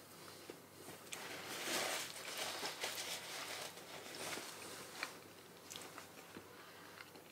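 Faint eating sounds: soft chewing and mouth clicks while eating creamy Monthong durian flesh, with a soft hiss-like rustle in the middle.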